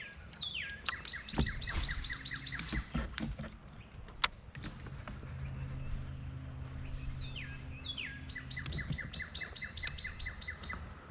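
A songbird singing twice, each song a quick downward slur running into a rapid series of repeated notes about three seconds long. A few sharp knocks sound in between, and a low steady hum runs through the middle.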